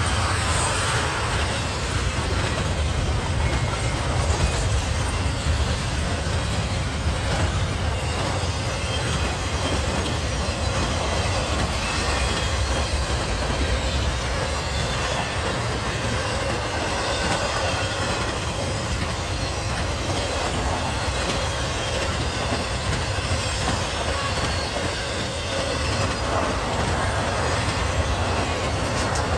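Intermodal freight train's container and trailer cars rolling past: a steady low rumble and rattle of steel wheels on the rails.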